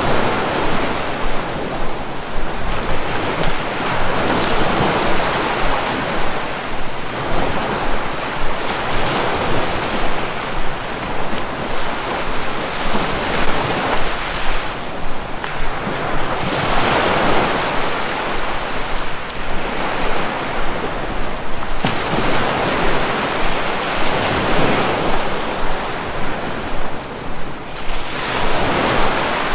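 Sea waves breaking and washing ashore, the surf swelling and easing every few seconds, with some wind noise on the microphone.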